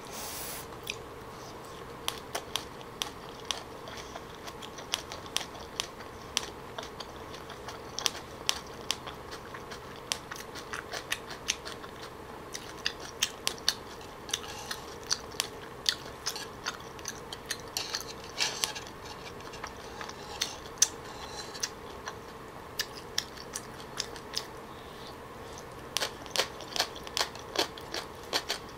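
Close-miked eating: chewing of raw fish wrapped in a leaf, heard as many short, sharp wet mouth clicks and smacks, with chopsticks now and then clicking on the dish.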